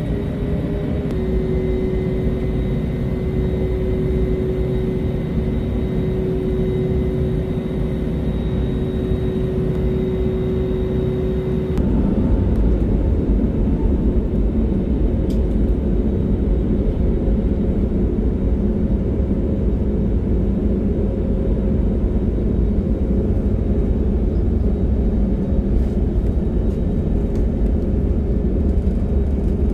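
Jet airliner engine noise: a steady rumble with a faint whine, which changes abruptly about twelve seconds in to a louder, deeper rumble.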